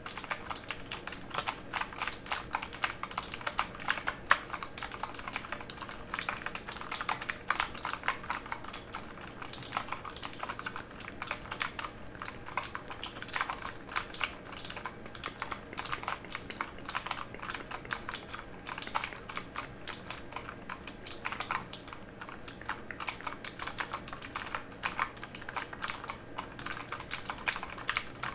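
Fast, continuous typing on a mechanical keyboard: a dense, irregular stream of sharp key clicks.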